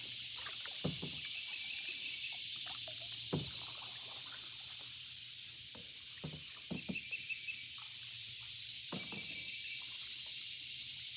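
Canoe paddling: dull knocks and dips of paddles, one every few seconds with a quick run of several in the middle, over a steady high hiss.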